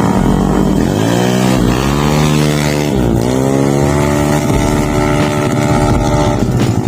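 Bored-up 180 cc Honda Vario scooter's single-cylinder engine through a DOS racing exhaust, accelerating on a test ride. The pitch climbs, dips briefly about three seconds in, climbs again and holds steady, then drops off near the end.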